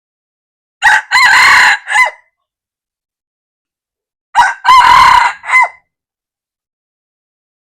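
Red junglefowl rooster crowing twice, each crow about a second and a half long: a short opening note, a long held middle and a clipped final note.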